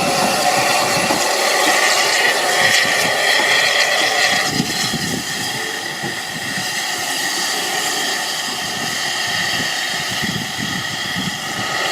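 Steam train hauled by No. 30541 running on the line: a steady rumble and rattle of wheels and rolling stock, with some hiss. It drops a little in level about four and a half seconds in.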